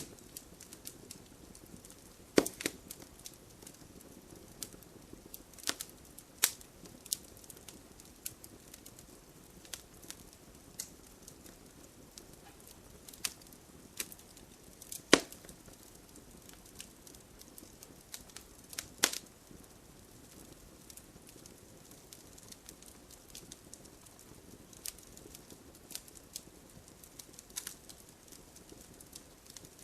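Fire in a fireplace crackling: irregular sharp snaps and pops over a soft steady hiss, with a few louder pops about two and a half, fifteen and nineteen seconds in.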